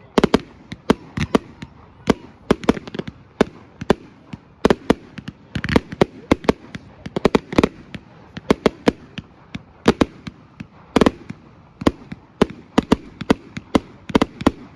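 Fireworks display going off: a rapid, irregular string of sharp bangs and crackles, several a second.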